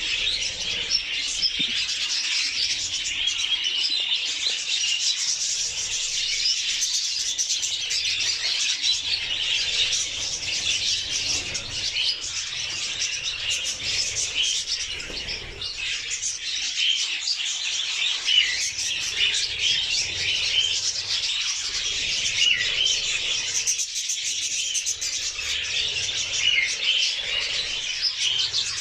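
Budgerigars chirping and chattering without a break, a dense run of quick high notes.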